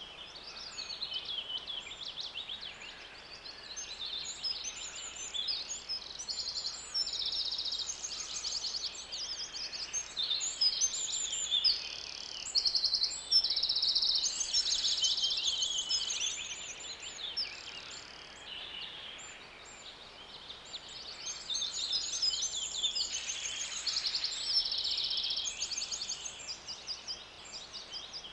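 Songbird chirping continuously, a dense run of high-pitched chirps and quick trills with hardly a pause.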